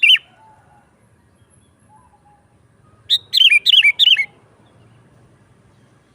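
Sooty-headed bulbul (kutilang) singing: a brief phrase of whistled notes right at the start, then, about three seconds in, a quick run of about five falling whistles.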